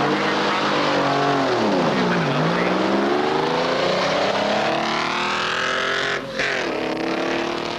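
Big-rig truck engine accelerating hard down a drag strip. Its pitch drops once at a gear change, then climbs steadily as the revs rise, and breaks off briefly at another shift about six seconds in before settling lower.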